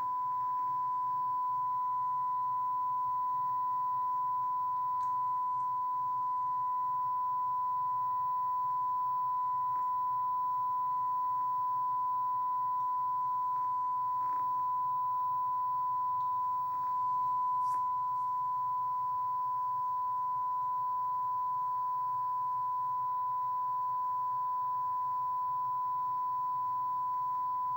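A steady, unbroken single-pitch beep tone on the soundtrack of a damaged VHS tape being played back, over a faint low hum; it cuts off suddenly at the end.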